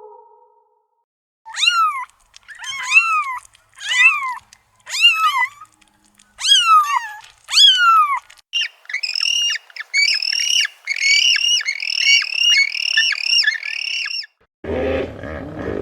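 A bird calling: a series of harsh, arching calls about one a second, then a faster run of higher, shorter calls. Near the end a deep, rough sound cuts in suddenly.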